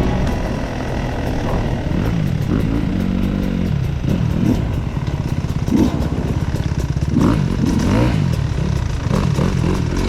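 Off-road dirt bike engine running at low speed, revving up and falling back in short bursts again and again.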